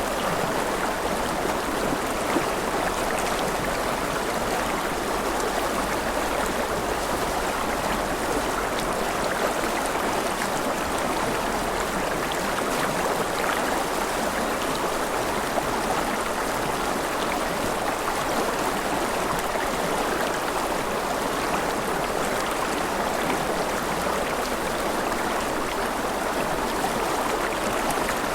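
Mountain river running over rapids: a steady, even rush of flowing water.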